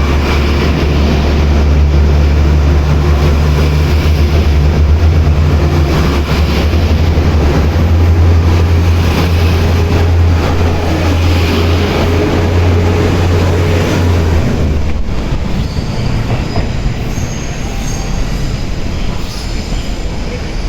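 KiYa E195 diesel railcars running past in a four-car set, a deep steady diesel engine drone over wheel and rail noise. The engine drone drops away about 14 seconds in, leaving wheel and rail noise with a faint squeal near the end.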